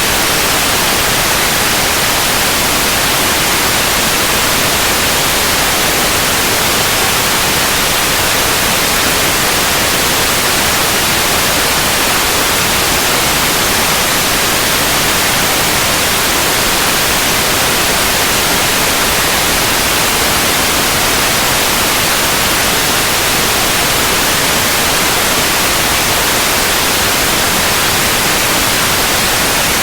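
Continuous white noise: an even, steady hiss with no changes.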